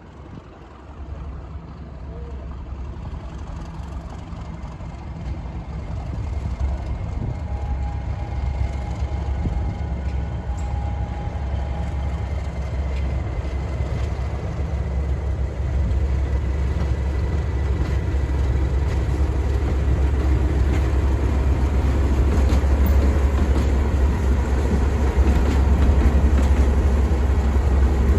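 Class 37 diesel locomotive's English Electric V12 engine working hard under heavy throttle, a deep steady drone growing steadily louder.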